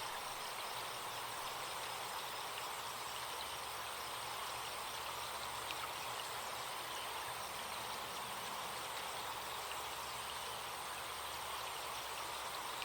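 Recorded forest stream ambience: steady running water, with a few faint bird chirps and a constant high tone from insects buzzing.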